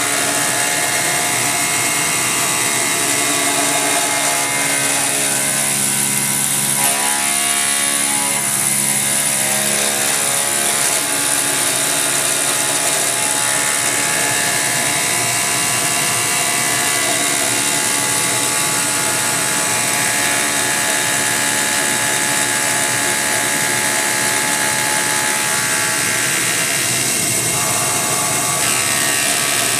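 CNC mill's belt-drive spindle running at about 6,000 RPM while an insert cutter roughs the part, a steady machine whine of several tones over the hiss of an air blower. Some of the tones shift for a few seconds early on as the cut changes.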